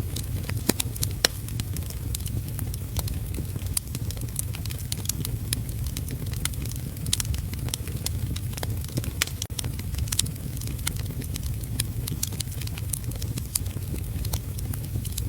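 Wood fire crackling in a fireplace, with irregular sharp pops and snaps over a steady low rumble, and a steady hiss of heavy rain behind it.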